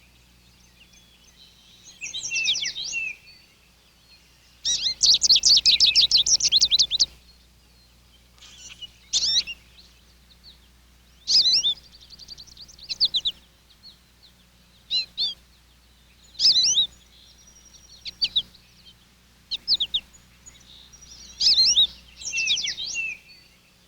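Backyard songbirds singing and calling in short high phrases with quiet gaps between them, the longest a rapid two-second trill about five seconds in. A faint low hum runs underneath.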